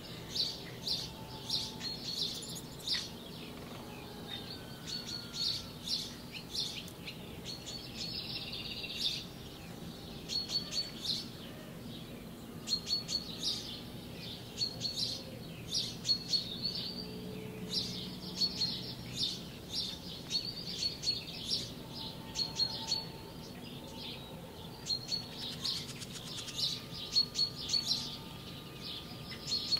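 Small birds chirping and twittering in quick repeated calls, over a faint steady low hum.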